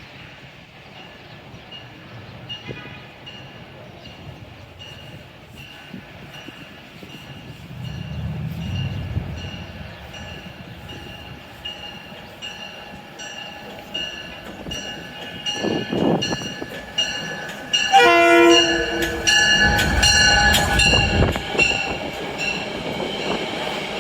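Metro-North train passing with its horn; the horn sounds loud and sustained as a chord of several tones about three-quarters of the way in, with low gusts of wind buffeting the microphone.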